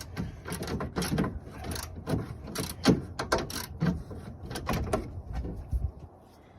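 Hand ratchet clicking, with tools knocking against the radiator fan assembly, as a bolt is driven in short irregular strokes; the clicking stops about six seconds in.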